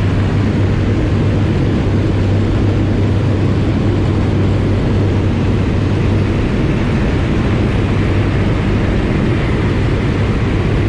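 Float plane's propeller engine running steadily in flight, a loud even drone with a strong low hum, heard inside the cabin.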